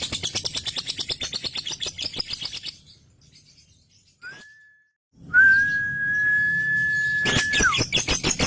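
Male lovebird's rapid, continuous chattering trill (ngekek), which stops about a third of the way in. After a short pause and a brief whistle, a long steady whistle on one pitch is held for about two seconds and falls away at its end. The fast chattering starts again near the end.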